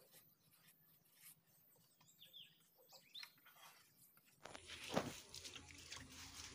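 Near silence with a few faint bird chirps. About four and a half seconds in, the background noise rises and there is a single knock of a wooden bench being lifted.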